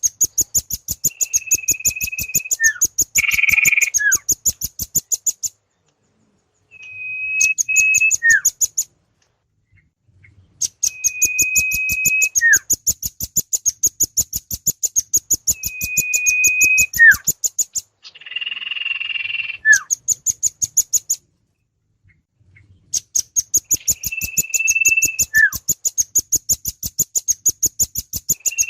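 Bird-lure recording of small birds calling: bouts of very rapid, high chattering trills, each with a held high whistle that ends in a short downward slide. The bouts repeat in a loop, broken by a few second-long pauses and twice by a brief harsh rasp.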